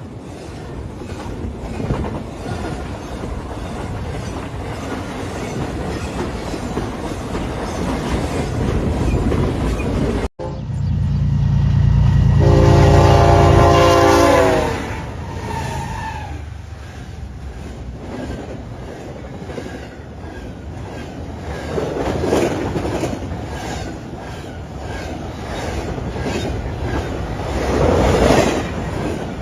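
A passing train's wheels clattering over rail joints. After a sudden cut, a train horn sounds one loud chord of several notes for about three seconds over heavy rumble, then the train keeps rolling by.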